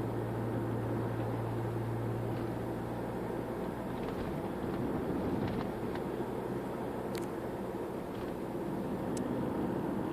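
2013 Toyota RAV4 driving: a steady engine hum over road and tyre rumble. The engine's low tone drops away about four seconds in, and there are a couple of faint ticks near the end.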